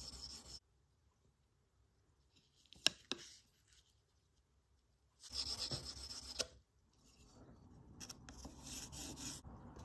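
Hand strokes of a file or abrasive rasping against a plated brass watch case, taking back the worn plating: a short patch of rubbing, two sharp clicks about three seconds in, another patch of strokes just past five seconds, then repeated rasping strokes building up near the end.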